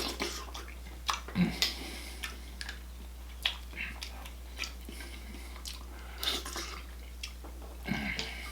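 Close-up eating sounds: chewing and wet smacking of mussels in garlic butter sauce, with scattered short clicks. Two louder short sounds come about a second and a half in and near the end.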